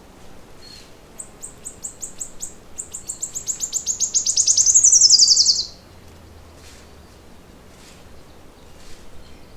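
A songbird singing one long, fast trill of high notes that speeds up and grows louder over about four seconds, then ends in a quick downward slur. A few faint chirps follow.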